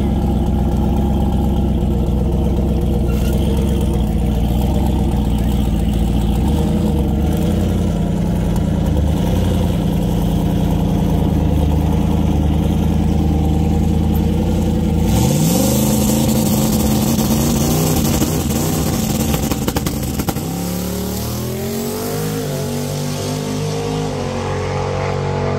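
Fox-body Ford Mustang drag car's engine idling loud and rough for about fifteen seconds. It then revs and launches, its pitch climbing through what sound like gear changes as it pulls away down the track.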